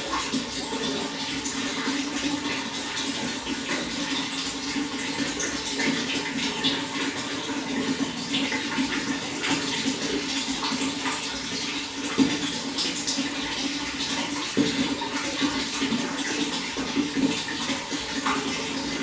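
Running water splashing and burbling steadily, with many small drips and splashes.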